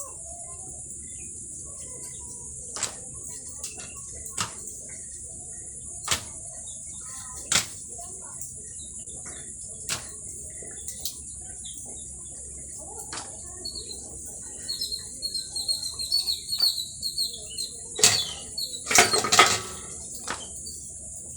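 A steady high-pitched insect drone, with sharp knocks every second or two and a cluster of louder knocks near the end. Bird chirps come in from about two-thirds of the way through.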